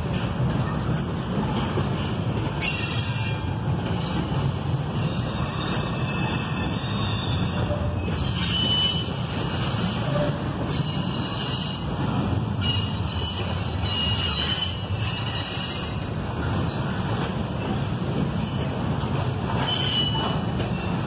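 Double-stack intermodal container train rolling past at close range, its steel wheels rumbling steadily on the rails. High-pitched wheel squeals rise and fade several times over the rumble.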